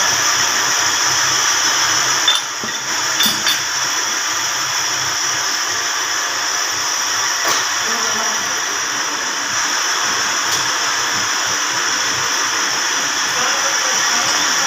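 A grinding machine running steadily with a high whine, working on a Toyota 5L engine's camshaft or cylinder head. A few sharp clicks come about two to four seconds in and once more around the middle.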